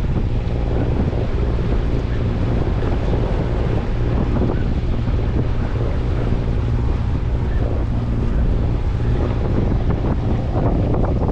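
Wind buffeting the microphone aboard a moving yacht, with water washing along the hull and a steady low drone underneath.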